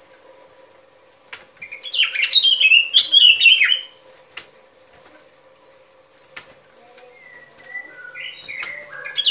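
Yellow-vented bulbul (chim bông lau) lure call: a phrase of quick, bubbly warbling notes about two seconds in, then another phrase building near the end. A faint steady hum runs underneath.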